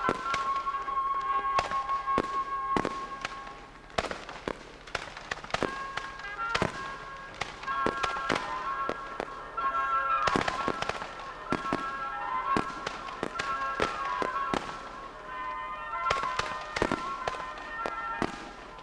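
Fireworks going off: a steady stream of bangs and crackling pops, some in quick clusters, over music with long held notes.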